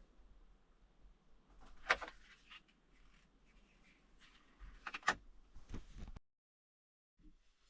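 Quiet handling noises with two sharp knocks, about two seconds in and again about five seconds in. The sound drops out completely for about a second near the end.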